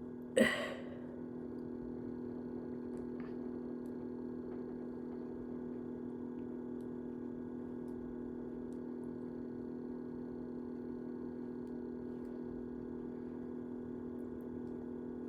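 A steady low electrical hum made of several constant tones, with a brief breath sound about half a second in.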